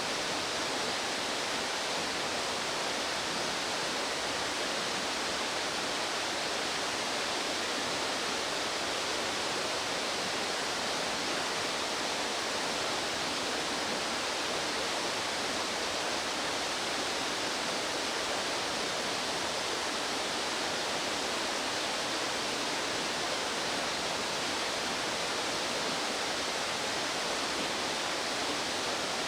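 Steady rush of fast-flowing stream water, an even hiss with no change throughout.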